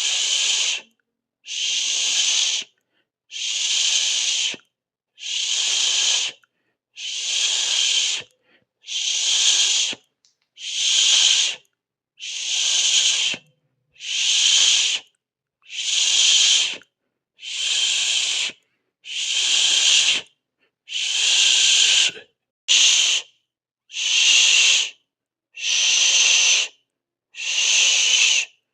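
A hissing 'ssss' sound, repeated about sixteen times. Each hiss lasts a bit over a second and is followed by a brief silence, one every second and a half to two seconds.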